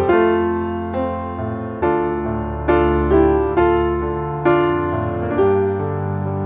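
Background music: soft piano, chords struck about once a second and left to ring and fade.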